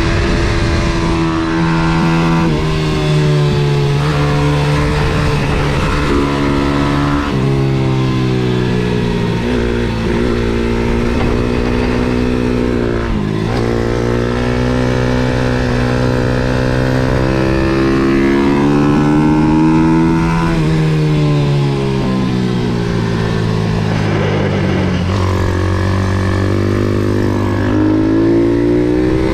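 MRF 140 SM pit bike's small single-cylinder four-stroke engine under hard riding on a track. The pitch climbs under throttle and drops in steps at gear changes. It falls sharply about 13 seconds in, falls again in a long slide a little after 20 seconds, and climbs once more near the end.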